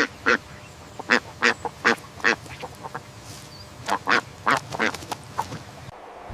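A duck quacking: a run of short, separate quacks in two bouts, with a pause of about a second and a half in the middle.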